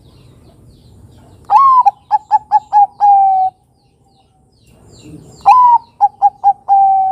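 Zebra dove (Bangkok-type perkutut) singing its cooing song twice, about four seconds apart. Each phrase opens on a slightly falling note, runs through four quick short coos, and ends on a longer held lower note.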